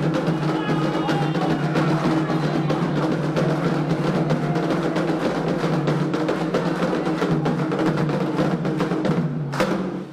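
Candomblé ceremonial percussion: drums played in a fast, dense rhythm, cutting off with a last sharp stroke near the end.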